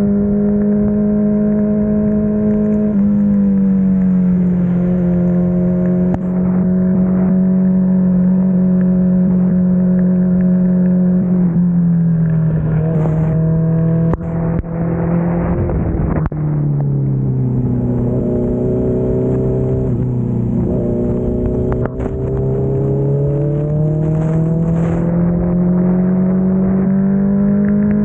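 Kawasaki Z900 motorcycle's inline-four engine running under way, its pitch holding and stepping down twice. It sinks lower through the middle, then rises steadily near the end as the bike speeds up again.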